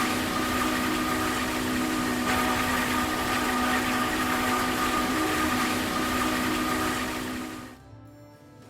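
Heavy machinery running steadily, a constant hum with a steady whine over a rushing noise, that fades out sharply near the end.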